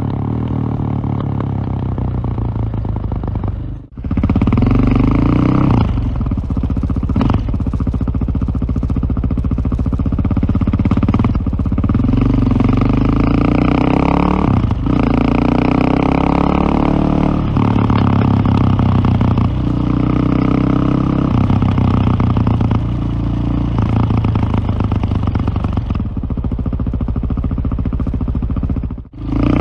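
KTM LC4 620's single-cylinder four-stroke engine under way, revving up through the gears with a short dip in the note at each shift. The sound drops out briefly twice, about four seconds in and near the end.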